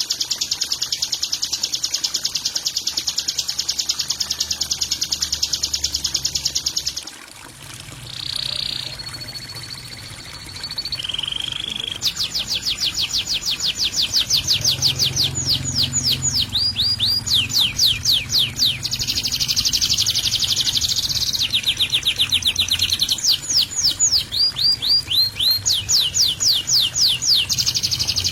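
Recorded songbird calls for training cage birds: a dense, fast high trill, then after a brief quieter gap about 7 seconds in, rapid runs of sharp sweeping chirps. The song switches abruptly between segments, as in a spliced recording. A low steady hum runs underneath.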